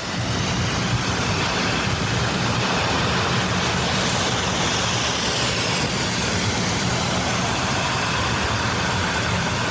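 Steady road traffic noise, an even wash of engine and tyre sound, with a faint high whine falling in pitch about four to six seconds in.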